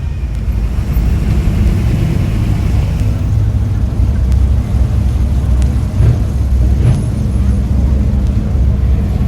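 A motor vehicle engine running steadily with a low rumble, with faint voices in the background.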